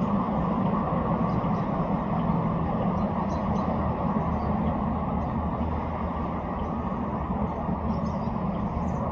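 A steady low rumbling noise, even throughout, with a few faint short high chirps or ticks scattered through it.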